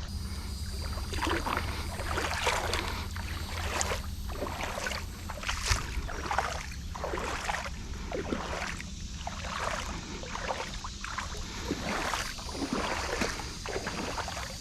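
Legs wading through deep creek water, sloshing and splashing with each stride, about one or two splashes a second, over a steady low rumble.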